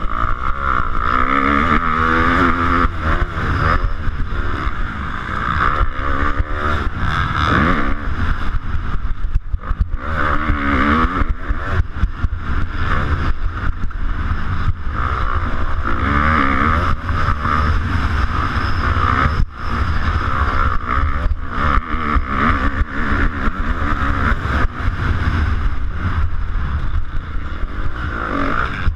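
250cc motocross bike engine at race pace, revving up and down, its pitch rising and falling every few seconds through the gears, with frequent sharp knocks and rattles over the rough track.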